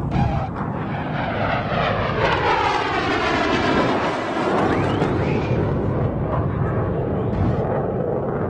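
Military jet aircraft flying past over a steady rumble, its engine whine falling in pitch as it passes between about two and five seconds in.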